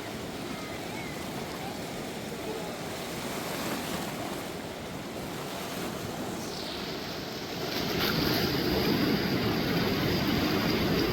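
Rushing water of a river in flood, a steady noise that grows louder about eight seconds in.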